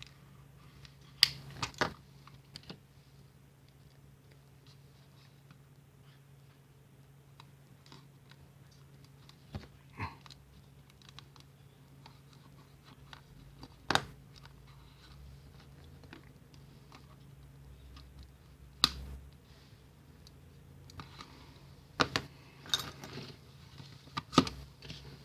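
Scattered sharp clicks and taps of hard plastic, as a computer mouse is handled, with small clusters of several quick clicks near the start and near the end, over a steady low hum.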